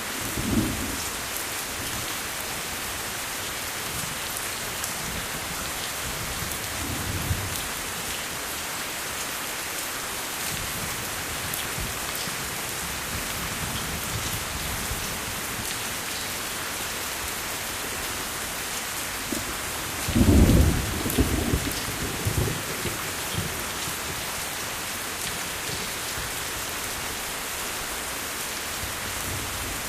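Steady rain falling, with low rumbles of thunder: a short one near the start, one about seven seconds in, and the loudest, longest roll about twenty seconds in.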